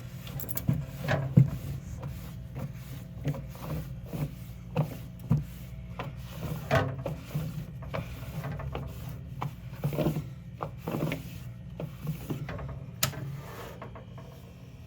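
Irregular knocks, taps and rubbing from hands cleaning the inside of a mini fridge, over a steady low hum. The knocks thin out near the end.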